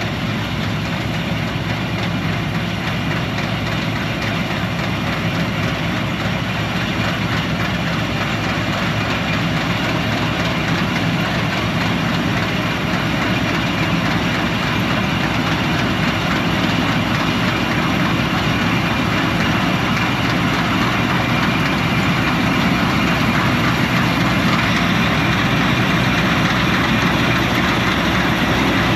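Combine harvester running steadily at working speed while harvesting wheat, an engine hum under a continuous mechanical rush.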